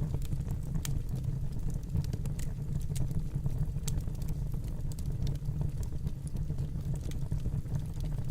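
Wood fire burning in a fireplace: a steady low rumble of flames with scattered sharp crackles and pops, about one or two a second.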